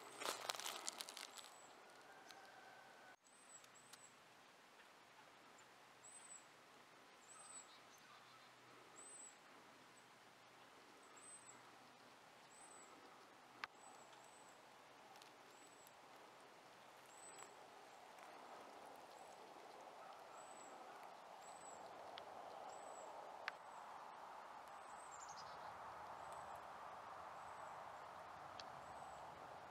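Faint outdoor quiet in woodland with a small bird repeating short, very high, thin chirps about once a second, and once a longer falling note near the end. Underneath, a faint steady rush grows slightly louder over the second half, with a couple of single clicks.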